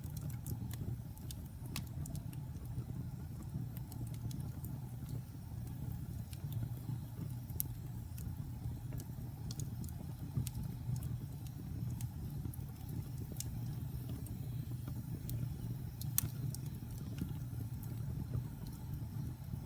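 Wood fire crackling in a fireplace: scattered sharp pops and snaps over a steady low rumble of the flames, with one louder pop about 16 seconds in.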